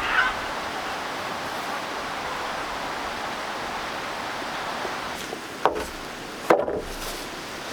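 Steady rushing of water, even and unbroken, with two sharp knocks about a second apart near the end.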